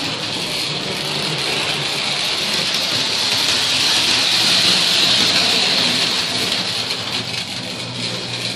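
Toy electric train running on its metal track: a steady hiss of wheels and motor with a faint low hum underneath, a little louder in the middle.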